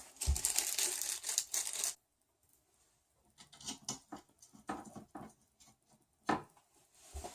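Small-parts handling while fitting the motor screws of a printer kit: about two seconds of rustling, then, after a short gap, scattered light clicks and taps of small screws and washers being picked up and set in place.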